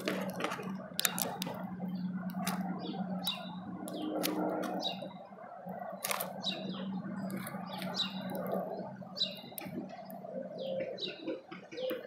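Small birds chirping in many short, repeated calls, with sharp clicks and taps mixed in, over a low steady hum that fades out about two-thirds of the way through.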